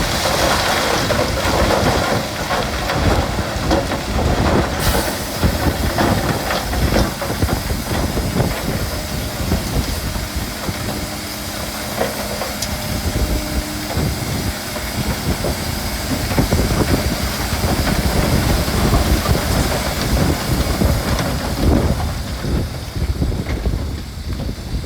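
Bulldozer diesel engine running under load, with a continuous rattling clatter and rumble of steel tracks and stone.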